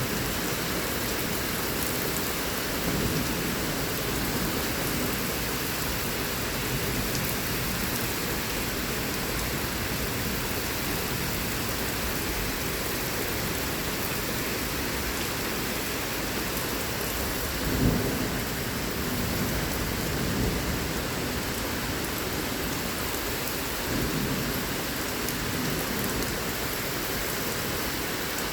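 Heavy thunderstorm rain falling steadily, with low rumbles of thunder several times. The loudest is a sharper crack about two thirds of the way through.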